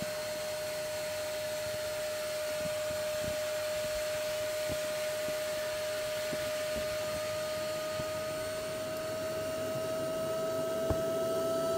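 High-speed electric air pump running steadily as it inflates a boat's tube, with a whine that creeps slowly up in pitch and grows a little louder toward the end; one small click near the end.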